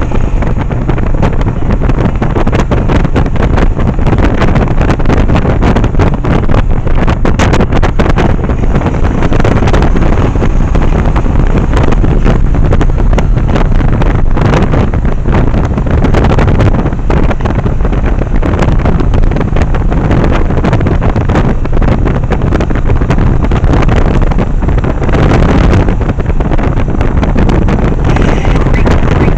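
Wind buffeting the microphone over a Yamaha 1100 motorcycle running at road speed, a loud, steady rush.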